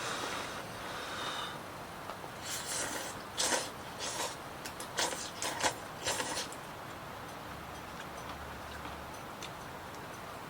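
Steady rain falling, with a quick run of clicks and clinks between about two and six seconds in, as of utensils handled against a pot.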